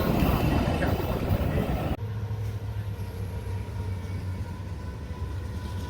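Metra commuter train rumbling along the rails, cutting off abruptly about two seconds in to a steady low hum with a faint high whine.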